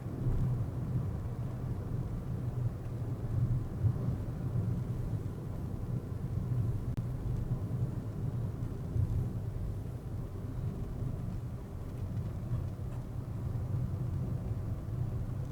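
Steady low rumble of a car's engine and tyres on the road, heard from a dashboard camera inside the moving car.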